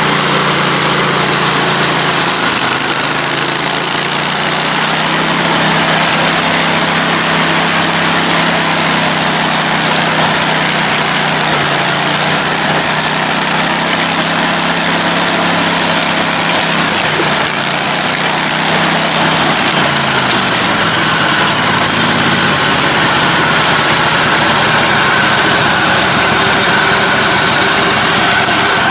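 Engine of a lifted, modified riding lawn mower running steadily while driving on trails, its note dropping about two-thirds of the way through as the throttle eases.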